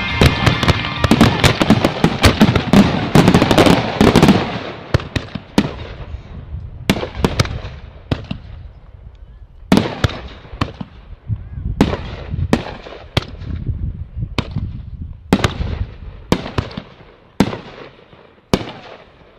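Aerial fireworks shells: a dense barrage of bursts and crackle for about the first four seconds, then single loud shell reports about once a second, each trailing off in a short echo.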